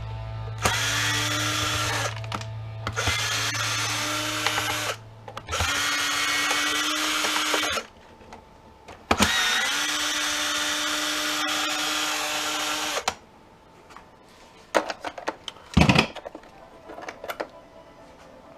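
Cordless power driver with an extension bit running in four bursts, the longest about four seconds, backing screws out of a plastic jump-starter case. After the last burst, scattered light clicks and knocks of parts and screws being handled.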